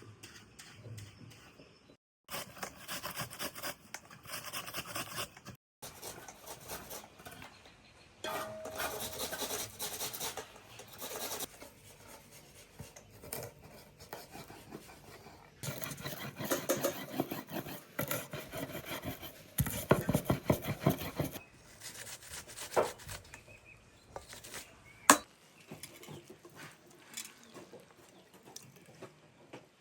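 Repeated scraping and rubbing strokes, with clinks of dishes or utensils and a sharp click about 25 seconds in. The sound stops and starts abruptly several times, as between edited shots.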